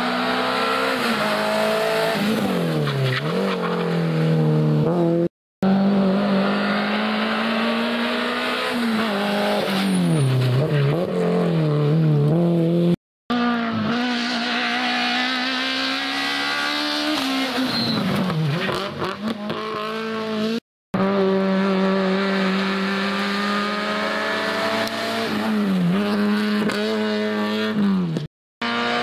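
Rally cars at full stage pace, engines revving hard and held high, with the pitch dropping and climbing again as they brake, downshift and accelerate out of corners, and tyres squealing. The sound comes in four short clips, each cut off by a brief break to silence.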